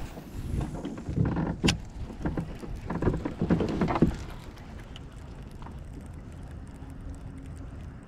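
Knocking and shuffling of gear moving about in a fishing kayak, with one sharp knock a little before two seconds in. After about four seconds it settles to a faint steady background.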